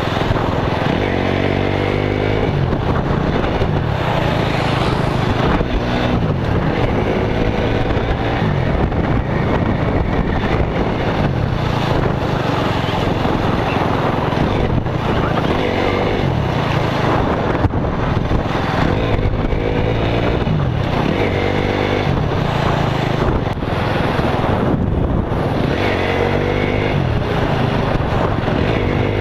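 Motorcycle engine running on the move, with wind buffeting the microphone; several times its pitch climbs as it accelerates.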